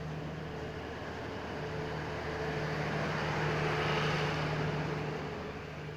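Passenger coaches of a diesel-hauled express train rolling past close by: a steady rush of wheels on rail that swells to its loudest about four seconds in as the last coach goes by, then fades away.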